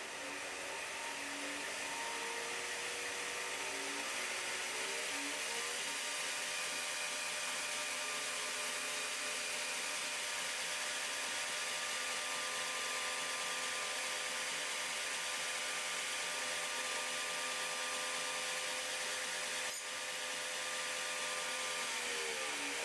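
A power tool's electric motor running steadily with a hissing whir. Its pitch rises about five seconds in, holds, and falls again near the end, with a single click shortly before that.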